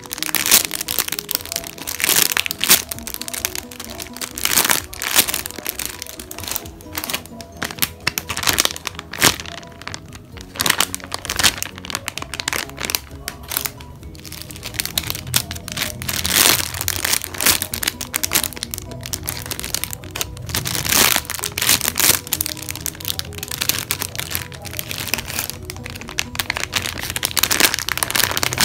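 Plastic bags crinkling and crackling in irregular bursts as packaged squishy toys are handled, over background music.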